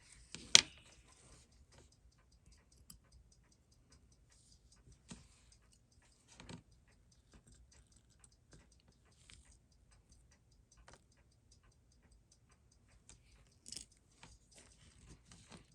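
Small, irregular clicks and taps of metal tweezers and tiny watch movement parts during bench disassembly. A sharper click comes about half a second in, and a run of clicks near the end.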